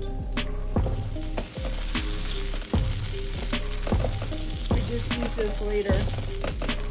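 Food frying and sizzling in a pan, with short sharp knocks about twice a second.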